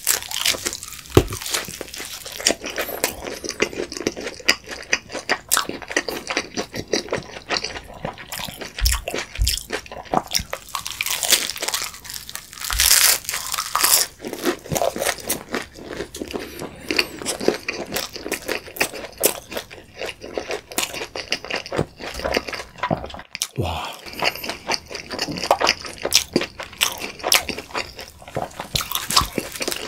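Close-miked biting and chewing of a steak pizza: a bite into the crust, then continual crisp crunching and wet mouth sounds as it is chewed.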